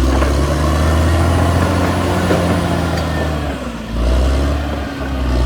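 Caterpillar D6R XL bulldozer's diesel engine running hard with a deep, steady note. It drops off briefly about three and a half seconds in and again near five seconds, then picks back up.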